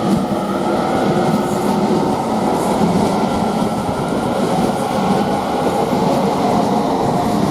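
Class 807 electric multiple-unit train departing, a loud steady rumble of wheels and running gear on the rails.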